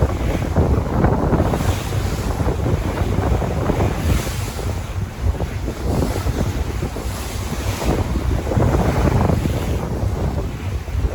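Sea waves breaking and washing in, swelling in surges every few seconds, with wind rumbling on the microphone.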